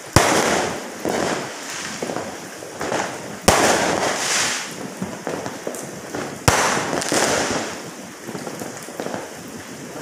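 Fireworks going off: three sharp bangs about three seconds apart, each trailing off into crackling, with smaller pops in between.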